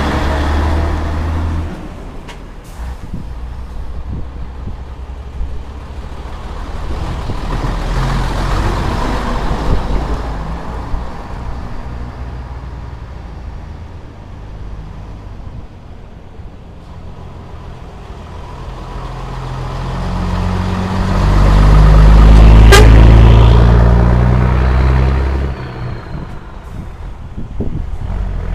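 Vintage Scania Vabis trucks driving past, their diesel engines swelling and fading; the loudest passes close by, building up about 20 seconds in and dropping away after about 25.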